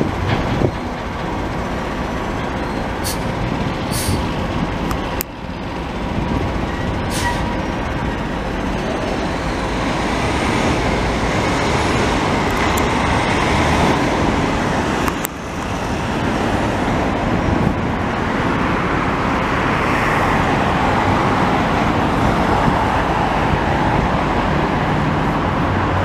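Commuter train of bi-level coaches with an EMD F59PH diesel locomotive rolling across an elevated viaduct, mixed with steady city street traffic that includes heavy trucks.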